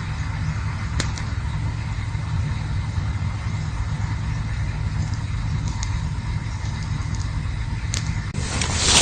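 Campfire burning with a steady low rumble and a few sharp crackles, then a louder rushing hiss rising near the end.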